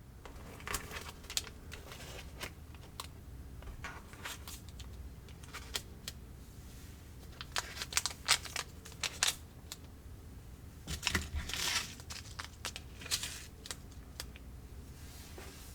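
Plastic packaging of a DIY candy kit being handled and opened: a series of sharp crinkles and clicks, with a longer crinkling stretch about eleven seconds in.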